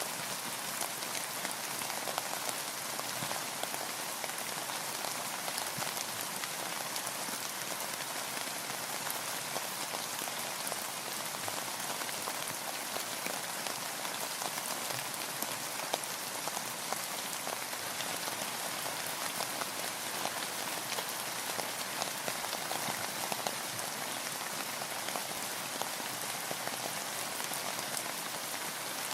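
Steady rain falling on a boat and the water around it: an even hiss of rain dotted with many small, separate drop ticks, unchanging throughout.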